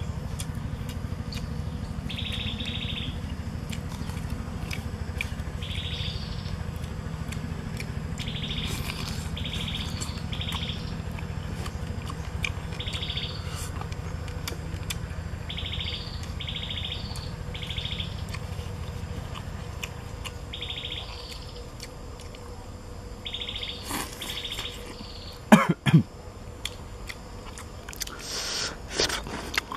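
Birds chirping in short repeated calls every second or two, over a steady low rumble. Near the end come a few sharp clicks and one loud knock as grilled fish is handled and eaten.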